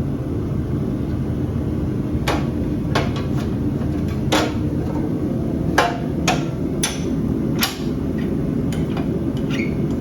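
Sharp metal clanks and knocks, about nine at irregular intervals, from steel bar stock being handled and positioned, over a steady low hum. The chop saw is not yet running.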